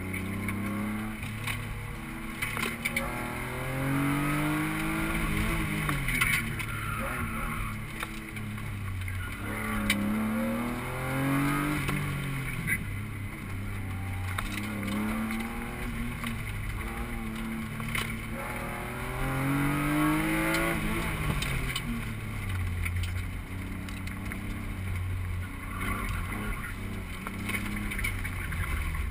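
Car engine heard from inside the cabin, revving up and dropping back again and again, its pitch climbing and falling every few seconds under hard acceleration and braking between cones.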